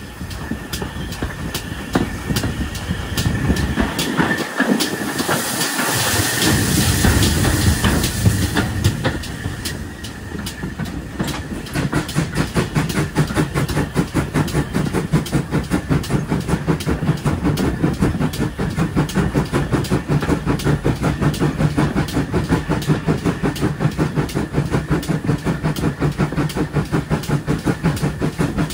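Pannier tank steam locomotive and its train on the move: a loud rush of steam hiss a few seconds in, then a steady fast rhythm of beats from about twelve seconds on.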